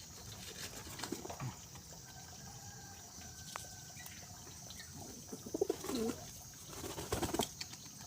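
Domestic pigeons cooing, low curving calls heard a few times in the second half, with a few sharp clicks.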